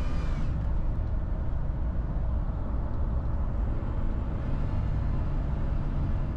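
Supercharged 3.4-litre 5VZ-FE V6 Toyota T100 pickup driving, a steady low engine and road rumble.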